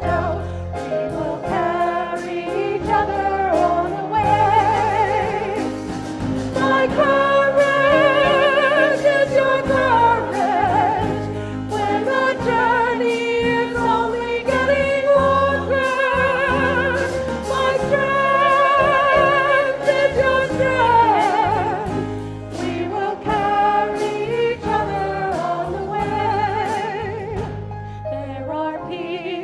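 A choir singing a slow hymn with instrumental accompaniment, long held notes sung with vibrato over a moving bass line.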